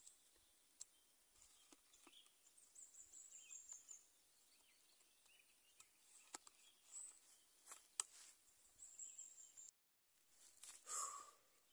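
Faint outdoor ambience: a steady high hiss with a few faint bird chirps and trills, broken by several sharp clicks and a brief dropout near the end.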